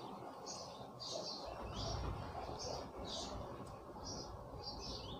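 Faint, short, high chirps of a small bird, repeated about twice a second.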